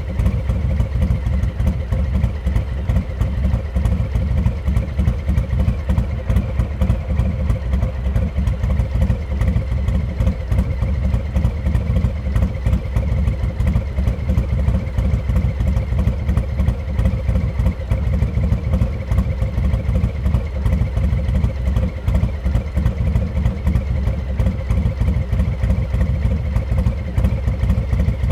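Harley-Davidson Heritage Classic 114's Milwaukee-Eight V-twin running steadily through a Rinehart exhaust, with a dense, even low-pitched pulsing and no revving.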